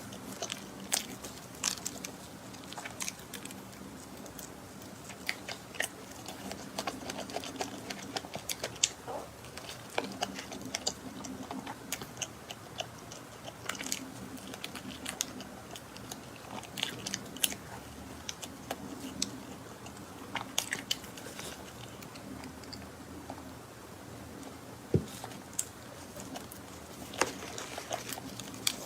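Close-miked chewing and wet mouth clicks of someone eating soft cream cake, a quick irregular patter of small sharp clicks over a faint steady low hum.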